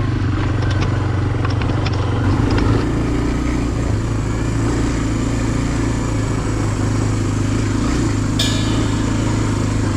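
Dirt bike engine running at a steady pitch, with no big revs, plus a few faint ticks.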